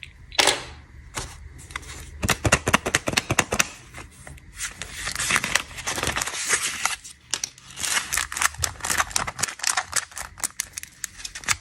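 Plastic snack packaging being handled and unwrapped: rapid crinkling with many sharp crackles, in denser crinkly stretches about halfway through and again near the end.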